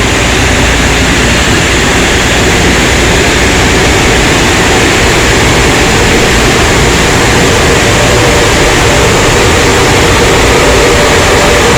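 Automatic car wash tunnel machinery running: a loud, steady rushing noise with a faint hum underneath.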